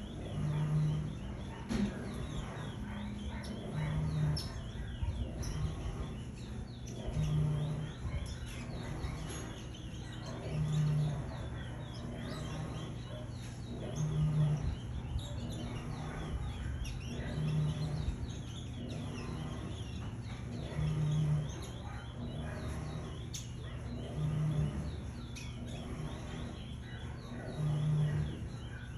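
Curiós (chestnut-bellied seed finches) chirping continually in many short, overlapping calls. Under them a low hum swells briefly at a steady pace, about every three and a half seconds.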